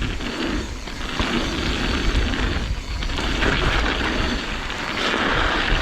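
Wind buffeting the microphone over the rolling tyre noise of a mountain bike riding a dirt trail, a rough rumble that swells and eases every second or two.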